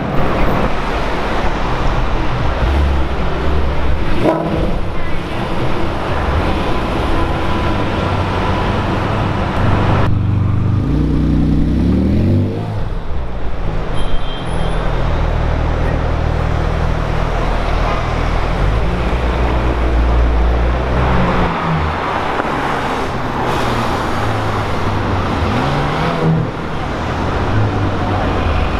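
Supercar engines in city street traffic, with an engine revving up and back down about eleven to thirteen seconds in.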